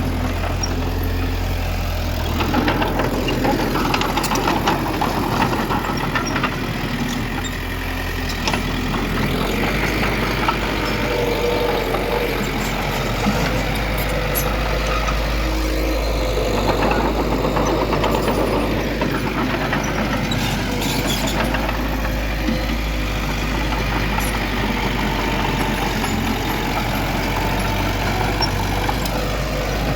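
Heavy diesel construction machinery running steadily, with a few short knocks.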